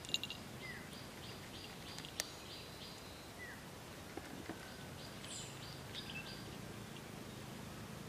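Wild birds chirping in short repeated phrases, with a few brief downward-sliding calls, over a steady outdoor background hiss. A few sharp clicks stand out now and then.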